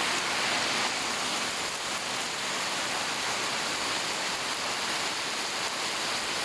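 Heavy rain pouring down, a steady, dense hiss without break.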